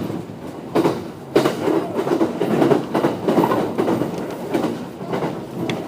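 JR 209 series 500-subseries electric commuter train running, its wheels knocking over rail joints, with the sharpest clacks about a second and a second and a half in.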